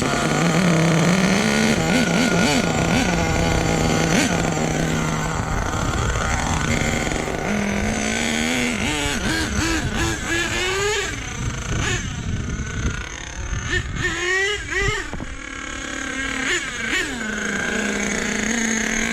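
Nitro RC truck's glow engine running rich: a steady idle for the first several seconds, then repeated revs that rise and fall in pitch as the throttle is blipped to clear it out.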